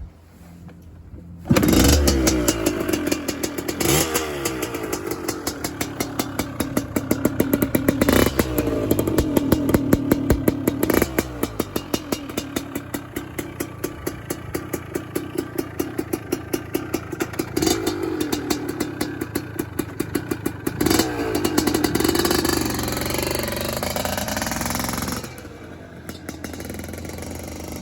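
Yamaha DT175MX single-cylinder two-stroke engine kick-started, catching about a second and a half in, then running with a loud, rapid exhaust crackle through a too-loud aftermarket end pipe and being blipped up in revs several times before settling lower near the end. The owner describes it as running awfully, which he expects a carburettor clean to sort out.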